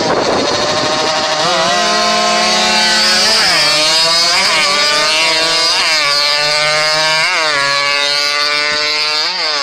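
Motorcycle engine running, revved in short throttle blips about every one to two seconds, its pitch jumping up and dropping back each time.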